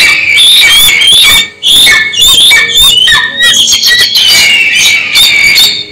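Eagle calling: a rapid series of high-pitched screeches with short gliding notes, with a brief pause about a second and a half in.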